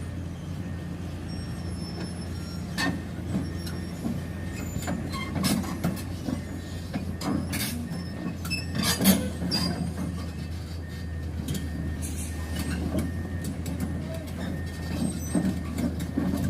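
Heavy diesel machinery, an excavator, running steadily with a low drone, while sharp metallic clanks, clicks and squeals come at irregular intervals, the loudest clank about nine seconds in.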